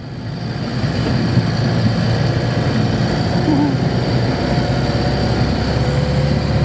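Camper van's engine and road noise heard while driving, a steady drone that builds up over the first second and then holds even.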